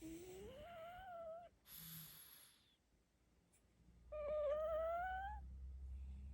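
Sleeping pug puppy whimpering in its sleep: two rising whines, the first at the start and the second about four seconds in, with a snoring breath between them.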